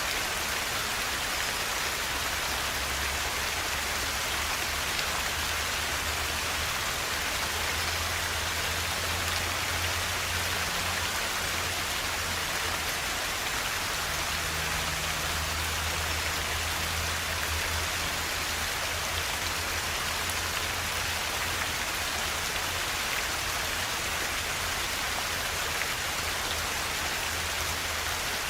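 Forest river flowing: a steady, even rush of water with a low rumble underneath.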